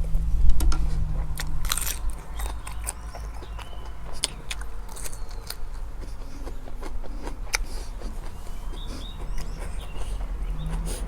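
Close-up crunching and chewing of food, with sharp crunches thickest in the first few seconds, over a steady low wind rumble on the microphone. A few faint bird chirps come in the second half.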